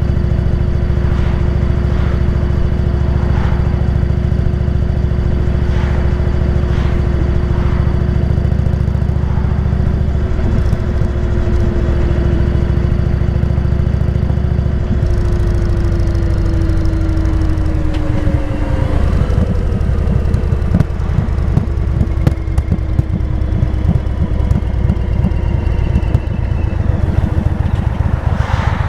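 Motorcycle engine running at a steady speed, its pitch falling about two-thirds of the way through as it slows down. After that the engine runs with a slower, more uneven low pulsing.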